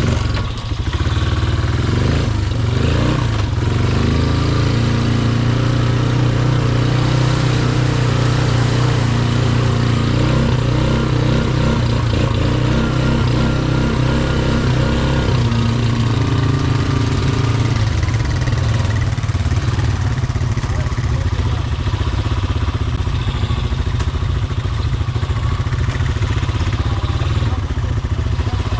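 Off-road vehicle engine running and revving. Its pitch rises and falls through roughly the first half, then holds a steadier note in the second half.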